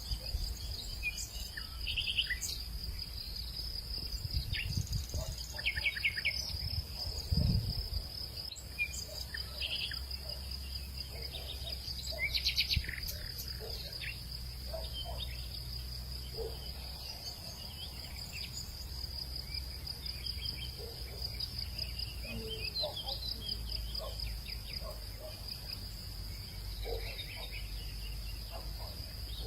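Outdoor hillside ambience: insects keep up a steady, high, fast-pulsing trill, while birds give short scattered chirps and calls. A low wind rumble runs underneath, with a couple of louder gusts in the first third.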